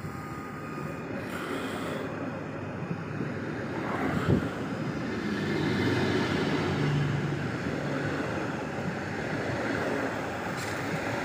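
Electric passenger train running through the station. The rail noise swells about five seconds in, with a single sharp knock just past four seconds.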